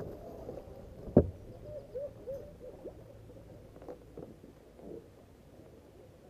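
Water gurgling and sloshing around the kayak in short, hollow, hoot-like blips. A single sharp knock comes about a second in.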